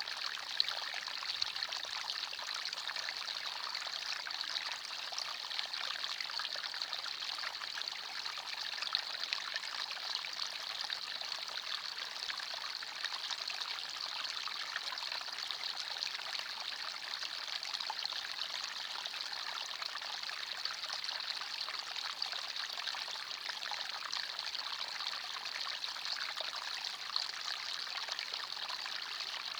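Small forest stream running and trickling over stones, a steady bubbling rush of water.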